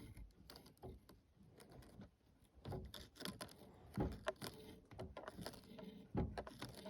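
Irregular clinks and knocks from a small emergency handsaw being handled, a few sharper knocks about three seconds in, four seconds in and near the end.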